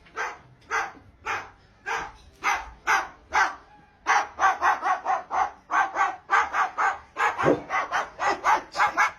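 A tropical bird giving a series of harsh, loud calls, about two a second at first, then quickening to about four a second from around four seconds in.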